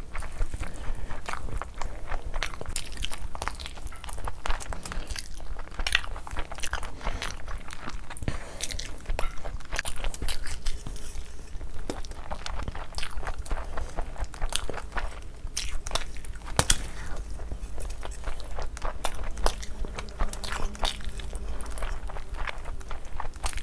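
Close-miked wet chewing and mouth smacking of a person eating rice and curry by hand, with many short clicks of lips and tongue.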